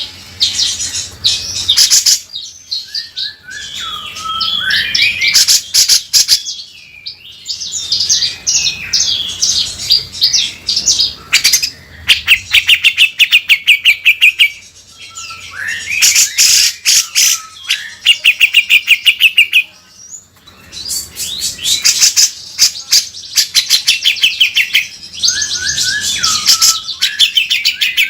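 Cucak jenggot (grey-cheeked bulbul) singing loudly and almost without pause: rapid, harsh rattling runs of repeated notes, the rough 'beset' calls, mixed with short whistled notes that slide in pitch.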